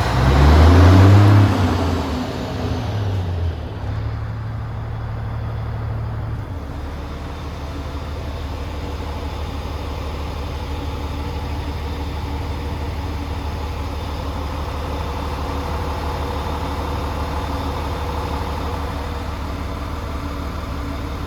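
Volvo FH12 460 truck's straight-six diesel revved once, rising and then falling in pitch over the first few seconds. It holds a slightly raised speed briefly, then settles to a steady idle.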